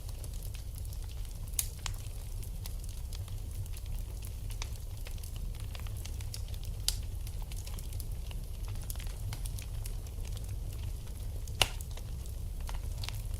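Wood fire burning in a fireplace, crackling, with a steady low rumble under scattered small snaps. Three sharper pops stand out, the loudest near the end.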